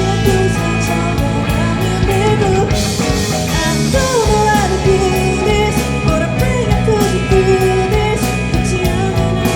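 Live rock band playing a song, with drum kit, bass and guitars under a bending melodic lead line.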